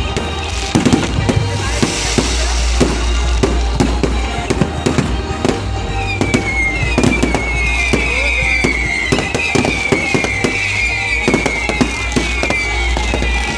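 Firecrackers cracking and banging in rapid, irregular succession, with music underneath. From about six seconds in, a high whistle slides downward about once a second.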